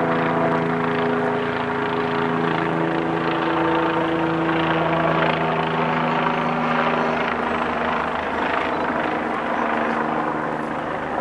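A vehicle's steady running noise, with several steady hum tones underneath that shift in pitch a couple of seconds in.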